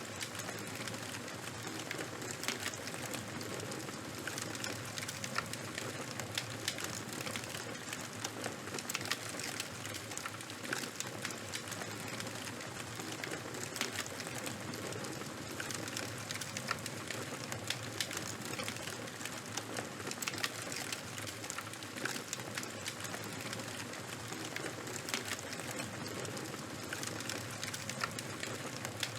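Charcoal and wood fire burning, crackling with frequent sharp irregular pops over a steady hiss.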